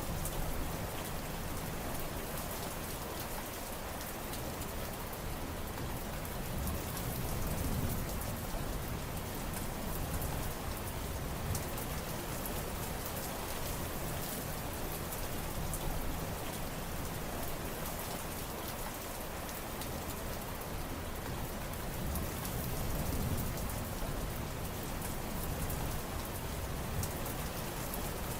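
Steady rain falling on surfaces, with many separate drop hits and a gently swelling low rumble of heavier rainfall.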